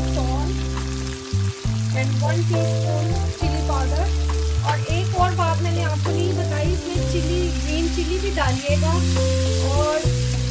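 Chopped tomatoes and onion sizzling in hot oil in a pan as a wooden spoon stirs them. Background music with deep held bass notes, changing about every second, plays along.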